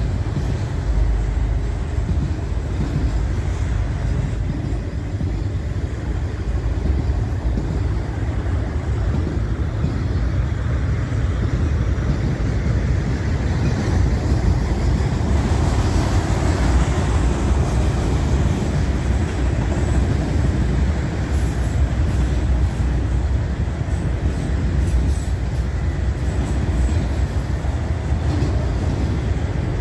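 Union Pacific autorack freight train rolling along after starting up again, its cars rumbling steadily on the rails.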